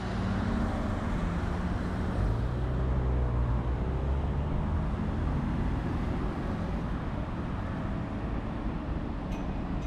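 A motor vehicle's engine running close by, a low steady hum over city traffic noise.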